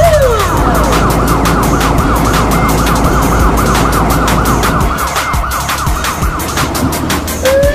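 Police car siren in a fast yelp, warbling up and down about three to four times a second, with a low rumble under it that drops away about five seconds in.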